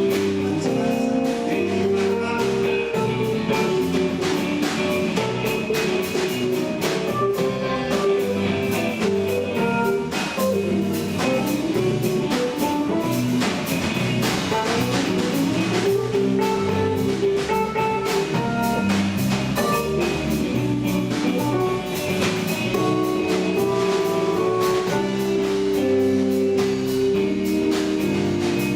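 A rock band playing an instrumental passage: guitar lines over a steady drum-kit beat.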